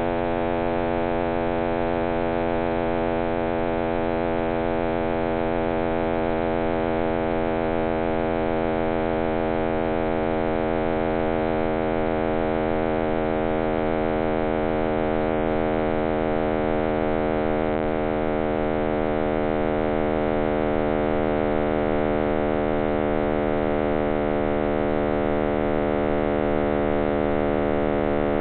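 Computer-simulated sound of the Big Bang, made from cosmic microwave background data shifted up into hearing range: a steady, dense hum of many stacked tones over a low hiss.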